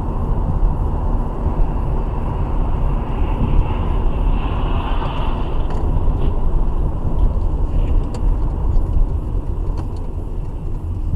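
A car driving: steady engine and road rumble.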